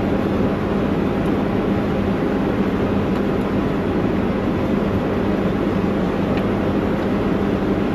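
Steady mechanical drone with a constant low hum, unchanging throughout, like running machinery.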